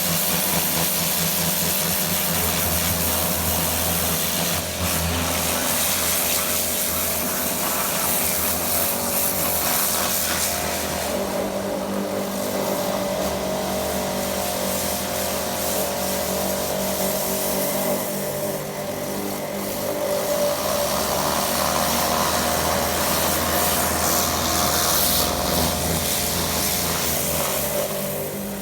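Pressure washer running steadily, its motor humming under the hiss of the high-pressure water spray. The spray hiss eases and returns a couple of times while the motor runs on.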